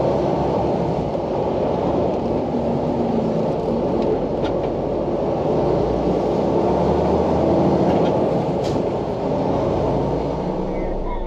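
Semi-truck engine and drivetrain running, heard from inside the cab as a steady low rumble.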